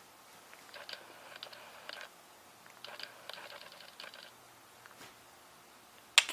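Dog chewing a squeaky plush chipmunk toy: two runs of quick clicks and faint squeaks, then one sharp click near the end, the loudest sound.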